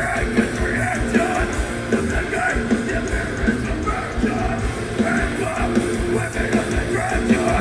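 Metalcore band playing live at full volume: heavily distorted guitars and pounding drums, with shouted vocals over the top.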